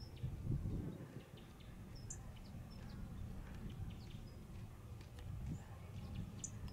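Faint low rumble, swelling about half a second in, with scattered short, high bird chirps over it.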